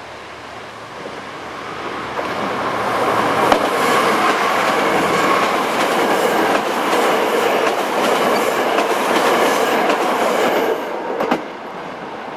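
KTR Tango Explorer diesel multiple unit passing close by, getting louder over the first few seconds as it approaches, with wheels clacking over rail joints. The sound drops away suddenly near the end as the last car goes by.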